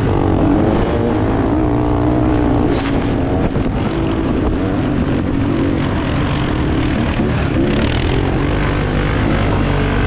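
Small off-road motorbike engines running and revving on a grass track, their pitch rising and falling steadily as the throttle opens and closes.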